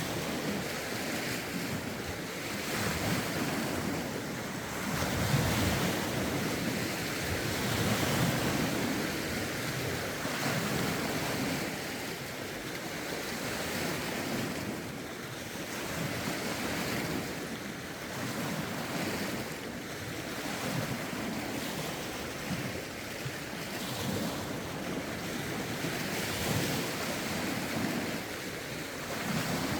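Lake waves washing ashore in a rough wind, surging and ebbing every few seconds.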